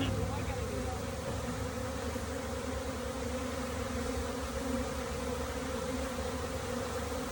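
A swarm of honeybees buzzing all around: a steady, many-voiced hum.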